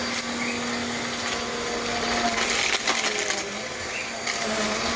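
Vacuum cleaner running steadily with a hiss and a steady motor hum, and a few light clicks and knocks.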